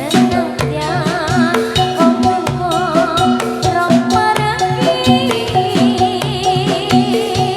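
Javanese gamelan accompaniment for jathilan: regular drum strokes and steady metallophone tones, with a high female vocal line held in wavering vibrato entering just after the start.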